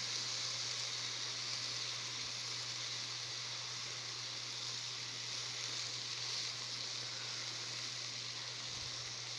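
Meat frying in a pan, a steady even sizzle.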